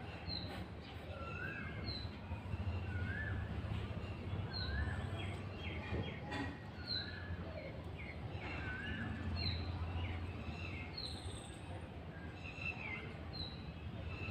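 Birds calling over and over, short high chirps alternating with lower rising-and-falling whistled notes about once a second, over a steady low rumble.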